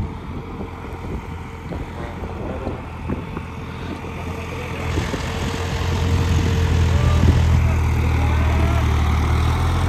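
New Holland 3630 tractor's diesel engine running, a new engine being broken in under work, with knocking and rattling over the drone. About five seconds in the engine note rises and grows louder, and stays there.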